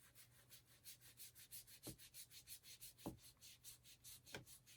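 Faint, quick, even scrubbing of an ink blending tool's foam pad on a paper tag, about six strokes a second, with three sharper taps in between, as Distress Oxide ink is blended onto the tag.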